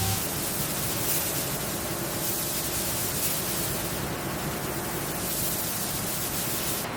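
A steady hiss, strongest in the high range, swelling and easing every second or so.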